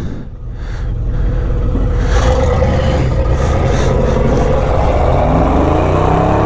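Pickup truck engine pulling hard off-road, growing louder over the first two seconds, then running steadily loud with its pitch rising and falling as the revs change.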